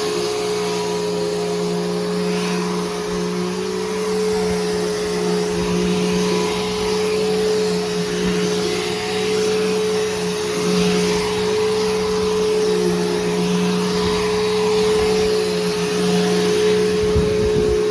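Bissell Powerforce Helix Turbo upright vacuum cleaner running steadily: a constant motor hum over a rushing air hiss, with some uneven low rumble.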